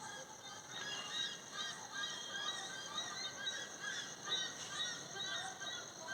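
Many birds chirping at once in a dense chorus of short, quick calls, over a steady high-pitched hiss.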